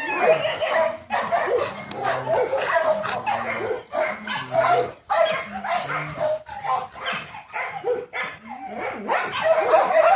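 A dog whining, yipping and barking in a rapid, continuous string of short calls.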